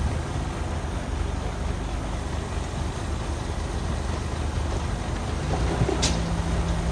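Heavy diesel earthmoving machinery running steadily. About five and a half seconds in, a steadier, higher engine note comes in, and there is one sharp metallic clank about a second later.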